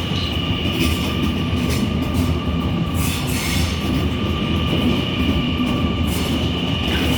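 Mariyung D-set electric intercity train moving past, a steady low rumble under a level high-pitched electric whine, with a few short clanks from the wheels on the track.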